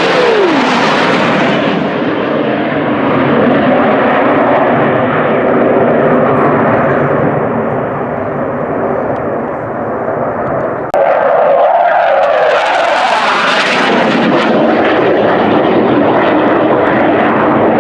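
Airplane flying past low and loud at an airshow, its engine tone dropping in pitch as it passes. The sound changes abruptly about two-thirds of the way through, and a second loud pass swells up and fades.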